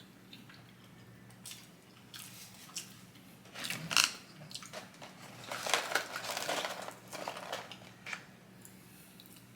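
Close-miked eating: biting and crunchy chewing of fast food, with a sharp crackle about four seconds in and a longer stretch of crunching and rustling in the middle.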